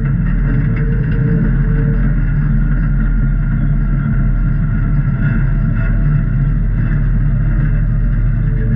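A Jeep's engine running steadily with a continuous low rumble.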